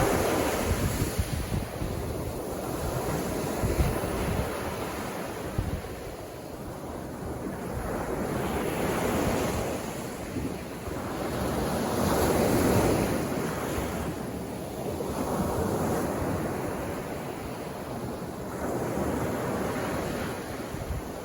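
Sea surf breaking on the beach, the wash swelling and easing in surges a few seconds apart, with wind rumbling on the microphone.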